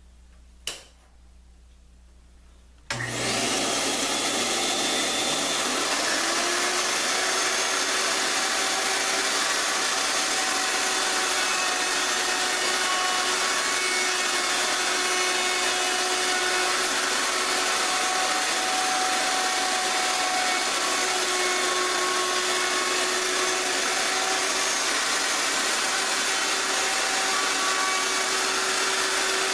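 A power tool's motor starts abruptly about three seconds in, after a single click a couple of seconds earlier, rises in pitch as it spins up, then runs steadily and loudly.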